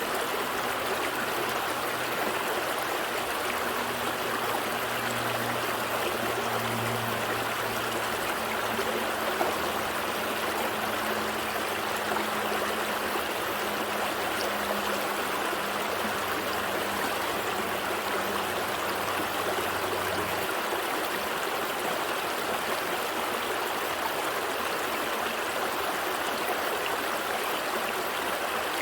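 Gentle stream flowing steadily, an even rush of running water. A low steady hum sits underneath and cuts off about two-thirds of the way through.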